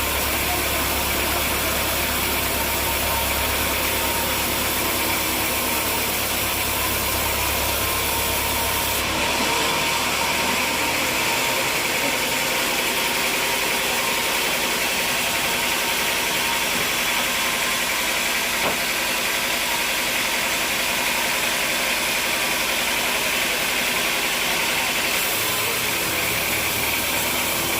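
Sawmill machinery running steadily: an engine-like hum with a hiss. About nine seconds in the low hum drops away and a higher hiss comes up, and near the end the low hum returns.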